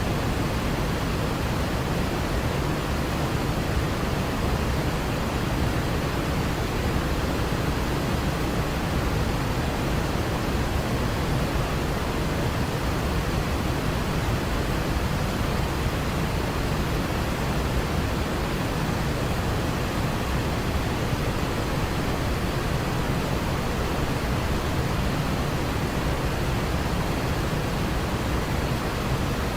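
Waterfall rushing, a steady full roar of falling water that does not change.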